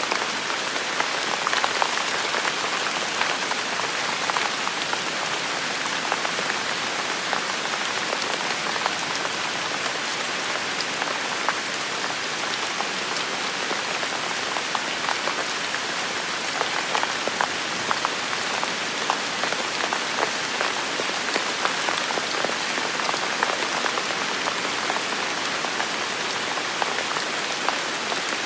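Heavy rain falling steadily, a dense hiss of drops with many small close drop hits ticking through it.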